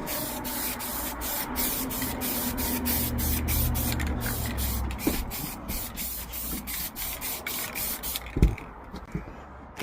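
Aerosol spray can hissing steadily as paint is sprayed, easing off near the end, with a sharp knock at about eight and a half seconds.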